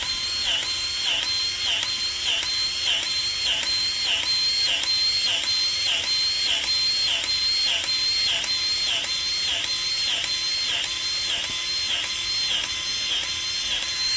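Battery-powered grease gun running continuously, its motor pitch dipping with each pump stroke about twice a second, as it forces grease into a snow plow's knuckle fitting that had been plugged.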